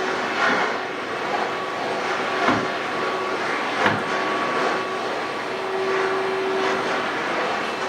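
An electric carpet-cleaning machine running steadily with a constant hum, and two brief knocks about two and a half and four seconds in.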